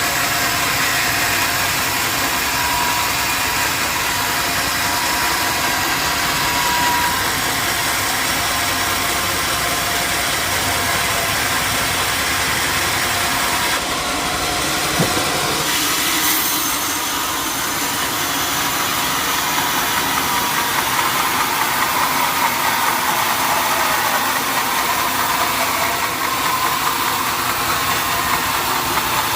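Sawmill machinery running steadily, with a single sharp knock about halfway through.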